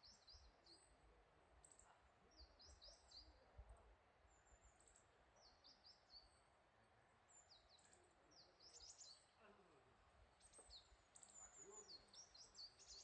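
Faint high-pitched bird calls: short downward-sweeping chirps in quick runs of three or four, repeating every second or two.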